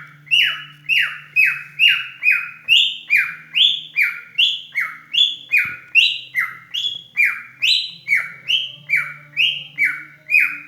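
Cockatiel calling over and over, about two short chirps a second, each one dropping sharply in pitch.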